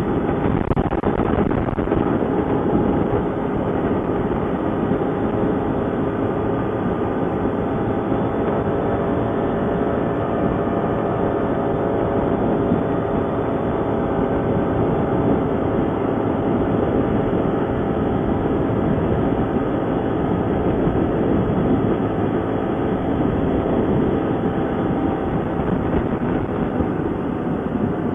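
ATV engine running steadily while riding, a continuous mechanical drone mixed with rushing noise.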